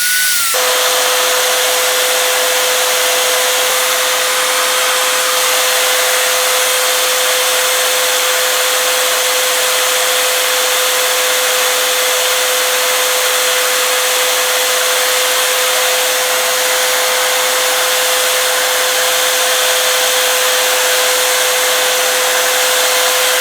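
Electric power tool running at a steady speed: a constant whine over a loud hiss of abrasive work on the workpiece. The pitch of the whine drops to a lower steady note about half a second in.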